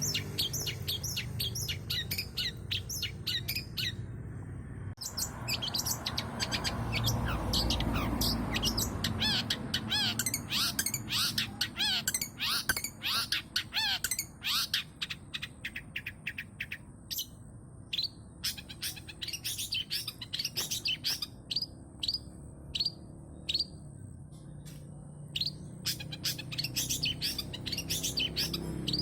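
Long-tailed shrike (cendet) singing: a fast chattering run of short, sharp, falling chirps mixed with mimicked calls of other birds. The song thins out into separate chirps with short pauses for a stretch past the middle, then grows dense again near the end.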